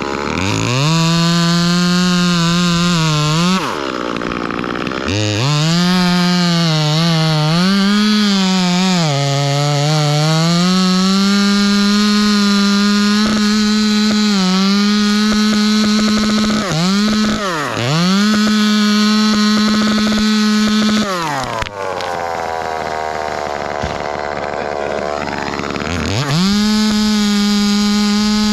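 Ported Echo 2511T two-stroke top-handle chainsaw cutting a limb: held near full throttle with the pitch sagging and recovering as the chain loads in the wood, dropping off briefly a few times. It idles for about four seconds near the end, then revs back up.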